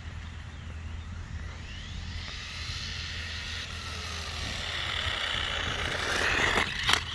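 Whine of the Xinlehong Q901 1/16-scale RC car's Racestar 3900 kV brushless motor on a 2S LiPo during a top-speed run. The pitch rises and falls and the sound grows louder, with a couple of sharp knocks near the end.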